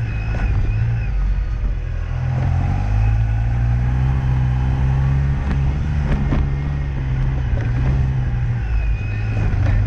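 Car engine running under load with the pitch rising and falling as it is driven, and a few sharp knocks about six seconds in.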